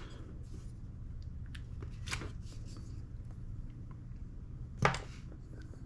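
Small parts of an airsoft gas blowback rifle being handled: faint clicks and rustling over a low steady hum, with one sharper click near the end.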